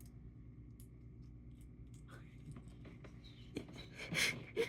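An Amazon parrot's beak working at pistachio shells: faint scattered clicks and scratches, with a few louder, crunchier sounds near the end.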